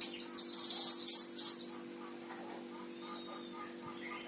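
A caged mantenan Himalaya songbird singing: a rapid, high-pitched trilled phrase lasting under two seconds, then a short pause and a second phrase starting near the end. A faint steady hum runs beneath.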